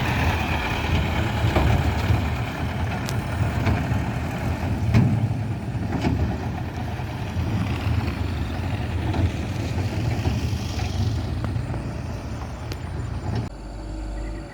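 Heavy truck's diesel engine running with a steady low rumble, with a few sharp knocks along the way. About a second before the end the sound cuts abruptly to a quieter, lower hum.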